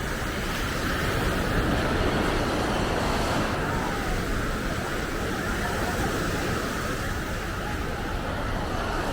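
Steady outdoor ambience of road traffic running, mixed with surf and a babble of distant voices.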